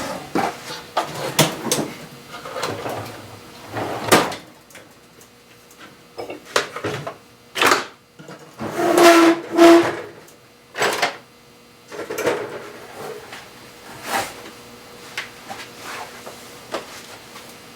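Scattered knocks and clatters of hand tools and parts being picked up, moved and set down in a workshop, with a short two-part squeak about nine seconds in.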